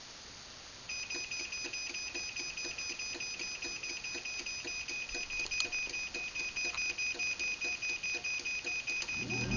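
Craftsman belt-drive garage door opener giving its timer-to-close warning: a steady high-pitched beep starts about a second in over rapid ticking about four times a second. Near the end the opener's motor starts with a rising hum as the door begins to close.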